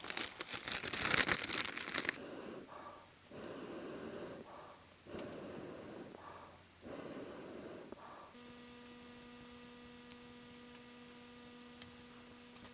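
A person slurping hot udon noodles: one long loud slurp, then four shorter slurps and draws of breath. A steady low hum starts about eight seconds in.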